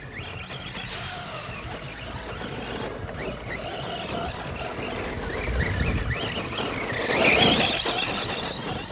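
Radio-controlled cars driving hard, their motors whining up and down in pitch as they throttle, loudest about seven seconds in.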